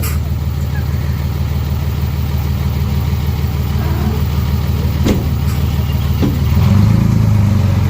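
Heavy diesel engine running steadily under a low, even drone. About two-thirds of the way in it revs up and gets louder, holding there to the end.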